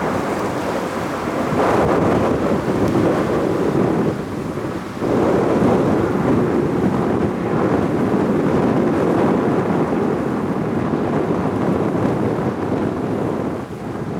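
Four-engine Airbus A380-800 jet roar as it climbs out after takeoff, a deep steady rumble that dips briefly about four seconds in, with gusty wind buffeting the microphone.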